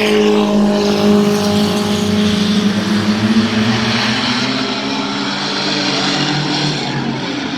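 Mini truck race trucks' engines running hard in a pack, several engine notes overlapping and drifting up and down in pitch as they lap the track.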